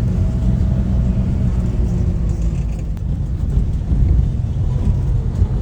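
Car engine running with a steady low road rumble, as from a moving vehicle.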